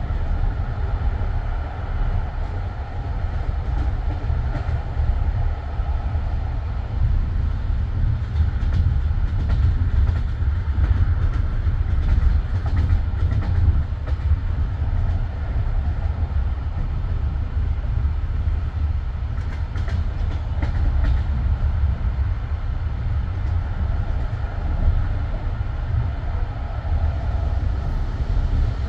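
Passenger train running along the line, heard from inside the carriage: a steady low rumble of the wheels on the rails, with scattered faint clicks.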